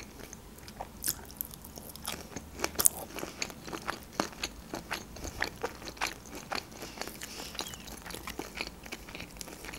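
Close-up mouth sounds of chewing shrimp and a rice-paper spring roll: irregular soft clicks and smacks, a few louder ones in the first three seconds.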